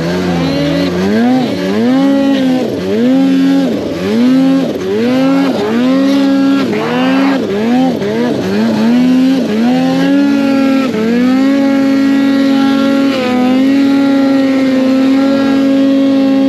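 Snowmobile engine revving up and down in quick repeated throttle blips, roughly one to two a second, then held at a steady high rev for the last several seconds.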